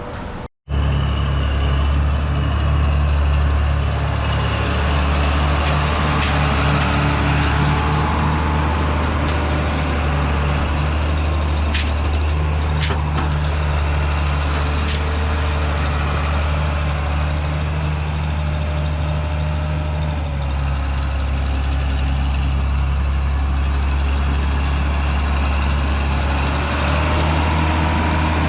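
Heavy diesel engine of farm machinery running at a steady speed, a low, even drone, with a few faint clicks around the middle.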